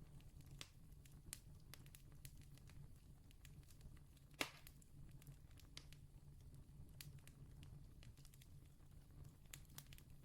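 Wood campfire crackling faintly: scattered small snaps, one sharper pop about four and a half seconds in, over a steady low rumble.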